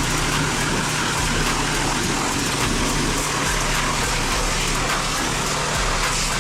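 Pressure washer running, spraying a steady jet of water, with the machine's steady hum underneath.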